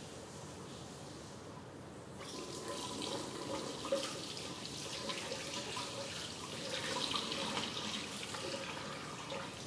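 Water starts running from a tap into a sink about two seconds in and keeps running, with a sharp click about four seconds in.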